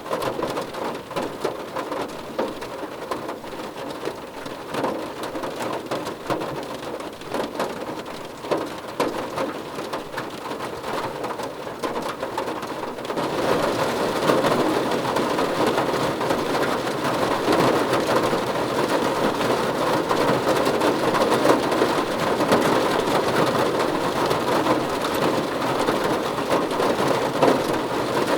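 Rain falling on a car's roof, a dense, steady spatter of drop impacts that becomes heavier about halfway through.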